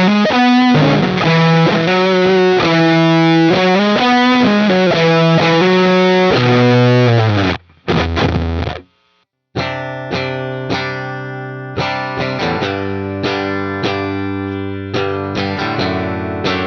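Electric guitar riff played through a JHS Kilt overdrive pedal with both gain switches on (its fuzz setting) into a Neural DSP amp plugin, thick and sustained, stopping about eight seconds in. After a short silence a cleaner guitar part begins, picked notes and chords ringing out and decaying, the reference clean tone that opens the next section.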